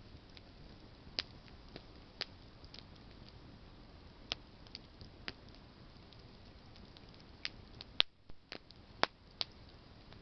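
Wood campfire of burning branches crackling: irregular sharp pops every second or so over a soft steady hiss, the loudest pops about eight and nine seconds in.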